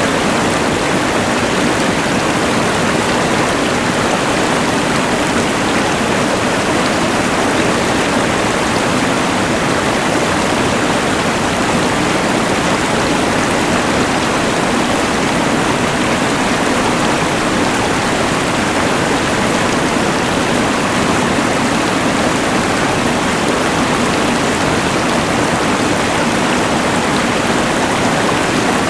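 Rushing mountain river water together with the steady hiss of a LectroFan white noise machine, making one even, unchanging wash of noise.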